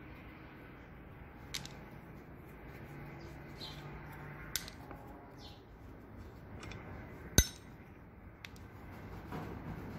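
A few separate sharp metallic clinks of hand tools against engine parts during engine teardown, the loudest about seven seconds in.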